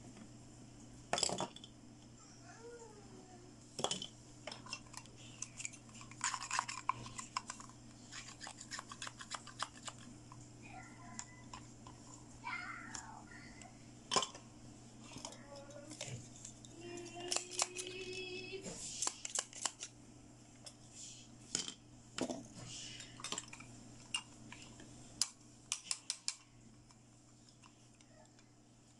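Small plastic toy doctor-kit pieces clicking and clattering as they are handled and set down on a table, with many quick sharp taps coming in clusters.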